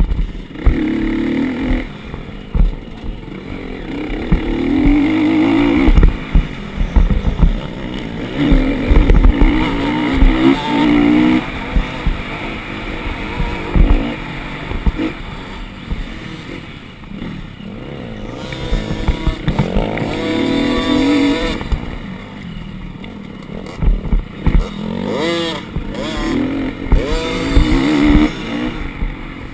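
Motocross dirt bike engine revving up and down over and over, its pitch climbing and dropping through gear changes, with sharp rises about two-thirds of the way in. Irregular low thumps run under it.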